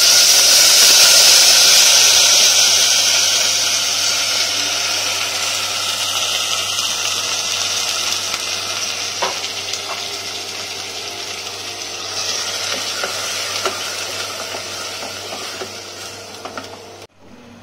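Onion paste sizzling as it hits hot ghee and oil in a pot and is stirred with a spatula. The sizzle is loudest in the first couple of seconds and then slowly dies down, cutting off suddenly near the end.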